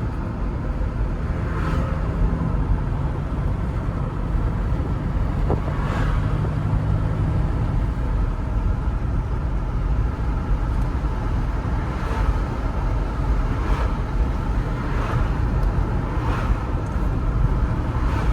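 BMW car driving: steady engine and road noise.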